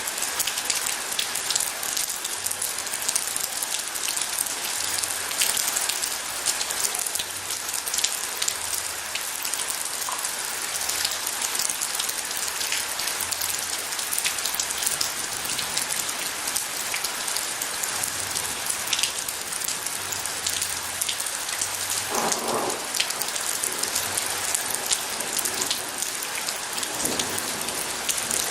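Steady heavy rain: a dense, even hiss of falling rain with many individual drops ticking on a surface. Near the end there is one brief, deeper noise.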